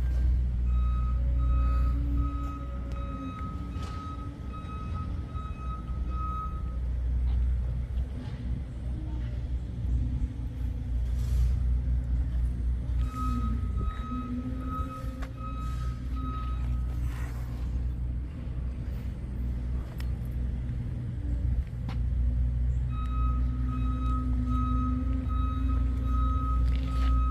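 Low, steady engine rumble with a fast, high electronic beeping that comes and goes in spells of several seconds, like a backup alarm.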